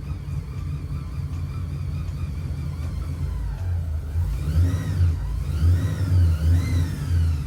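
Pontiac GTO's 408 stroker V8 running at a low, pulsing idle, then revved up and back down three or four times in the second half, as the car is driven into the shop.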